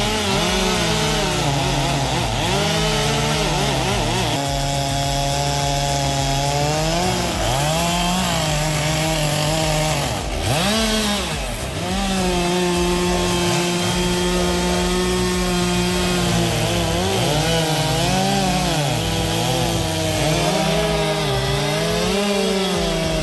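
Two-stroke chainsaw cutting through a large tree trunk during felling. Its engine pitch keeps sagging and rising again as the chain bites into the wood and frees up, with a brief drop about ten seconds in.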